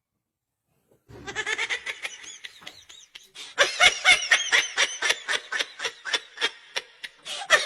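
A person laughing hard in rapid, rhythmic bursts, starting about a second in after a short silence and carrying on to the end.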